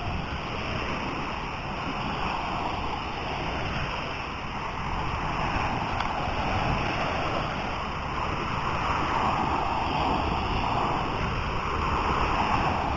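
Sea surf washing up a beach, with wind on the microphone; the rushing swells and eases slowly, building up toward the end.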